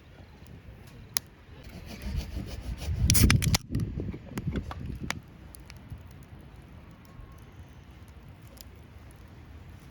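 Rough scraping and rubbing for about three seconds, loudest around three seconds in, with a few sharp isolated clicks scattered through.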